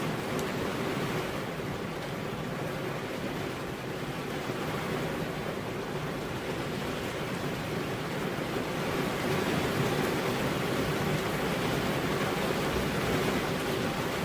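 Steady rain falling, an even hiss with no separate drops or thunder, growing slightly louder about nine seconds in.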